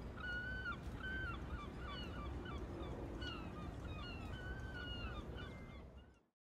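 Birds calling over and over in short, pitched notes, several overlapping, some dropping slightly in pitch at the end. A low steady outdoor rumble lies beneath them, and both fade out near the end.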